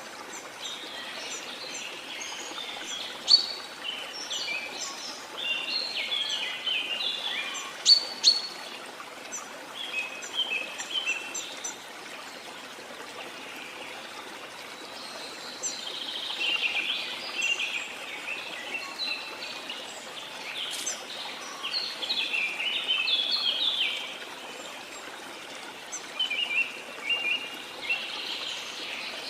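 Small songbirds chirping and twittering in quick clusters, with a short lull partway through, over a steady rush of water.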